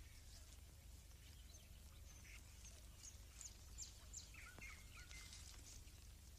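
Faint woodland birdsong: scattered high chirps, a quick run of short descending notes about three seconds in, then a few lower chirps, over a low steady hum.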